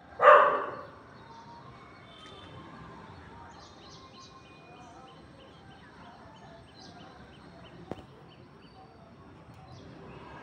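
Garden ambience with small birds chirping faintly: a short high chirp repeated about twice a second for several seconds. It opens with one loud, short call that fades within half a second, and there is a single sharp click about eight seconds in.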